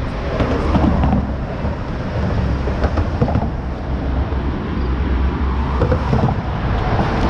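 Wind rumbling on the microphone while riding a bicycle, a steady low roar with road traffic noise mixed in.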